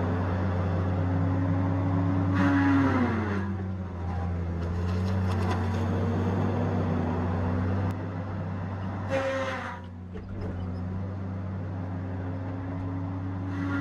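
Tigercat 870C feller buncher running steadily. Three short harsh bursts come about 2.5, 9 and 13.5 seconds in, and after each the engine's pitch drops as it takes the load of the saw head cutting.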